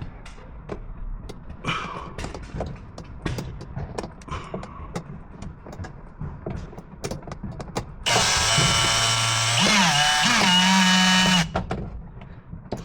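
Light clicks and knocks of tools and parts being handled, then about eight seconds in a power drill runs for roughly three and a half seconds, its motor pitch rising partway through before it stops.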